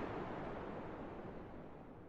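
Recorded wind noise, a steady rushing without tones, fading out gradually.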